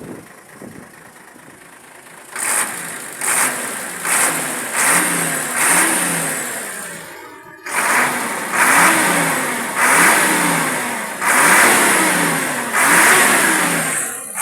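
Diesel truck engine being revved in repeated short throttle blips, starting about two seconds in. Each blip rises in pitch and falls back toward idle, roughly one every second or so, with a brief dip a little past halfway.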